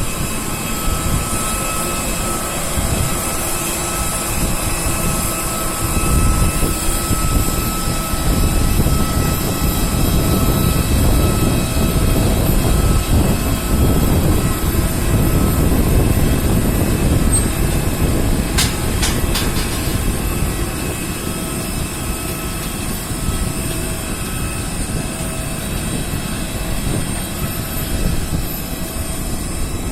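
Airliner jet engines running with a steady high whine over a low rumble; the rumble swells for several seconds mid-way and then eases. A few sharp clicks come about two-thirds of the way through.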